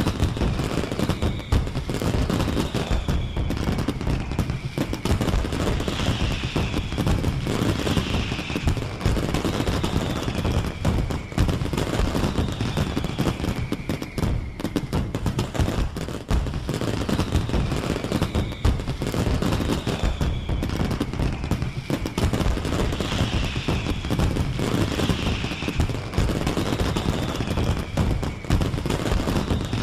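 Bonfire Night fireworks sound effect: dense, rapid crackling and popping with high falling whistles every couple of seconds. The recording repeats as a loop after about 17 seconds.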